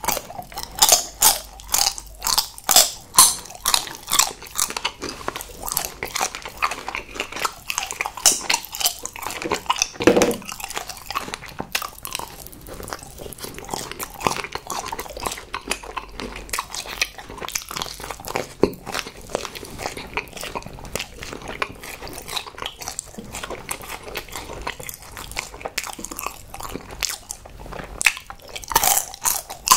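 Close-miked biting and chewing of chocolate sweets, with crisp, crackly bites and wet chewing. The bites come thickest in the first few seconds and again near the end.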